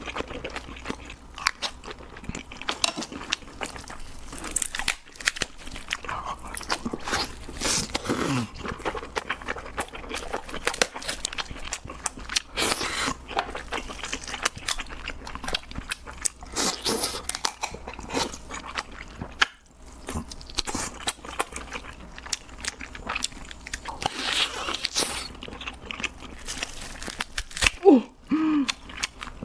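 Close-miked eating of giant crab: crunching, biting and chewing, with many crackles and clicks throughout. A short sound sliding in pitch comes near the end and is the loudest moment.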